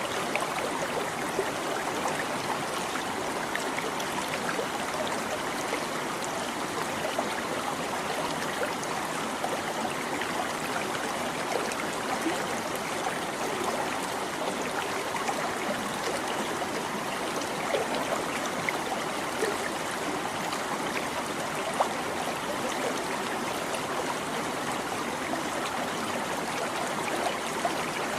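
Small stream babbling steadily, running water trickling and gurgling with tiny splashes.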